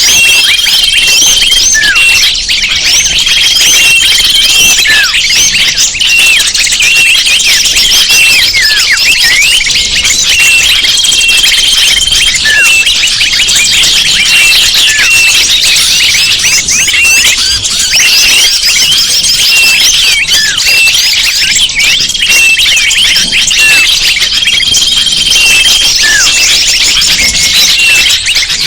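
A bird-lure recording of a dense chorus of many small birds chirping and twittering without pause. Short flat whistles and falling notes recur every few seconds, as in a looped lure track used to call birds in.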